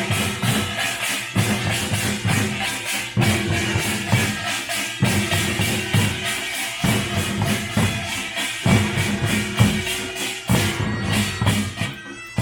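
Korean pungmul percussion band playing: drums and small gongs beating a dense, fast, driving rhythm, thinning out near the end.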